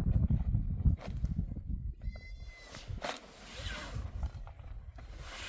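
An animal calling once, about three seconds in, over a steady low rumble.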